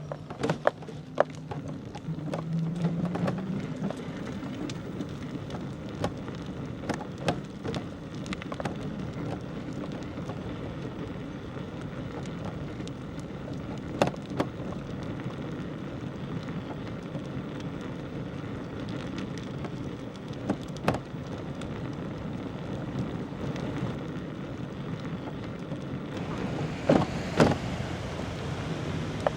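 Bicycle rolling along a rough village lane: steady tyre and wind noise with scattered sharp clicks and knocks, and a cluster of louder knocks near the end.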